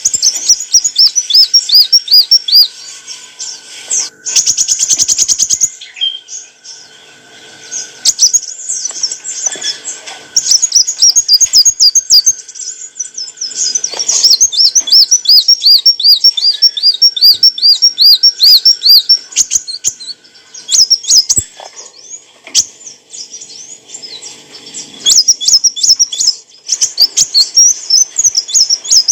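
Kolibri wulung sunbird singing: bouts of fast, high, repeated chirping notes run together into rapid trills, broken by short pauses.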